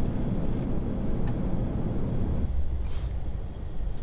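Steady low rumble of airflow and engine noise inside an Airbus A380 flight deck on approach. The noise thins out about two and a half seconds in, with a short hiss just after.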